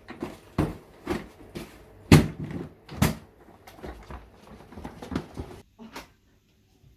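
A series of irregular knocks and bumps, one or two a second, loudest about two and three seconds in, dying away near the end.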